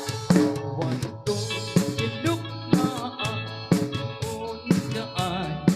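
Dance band music with no singing: electric guitar and keyboard-like tones over a drum kit, with a strong drum beat about once a second.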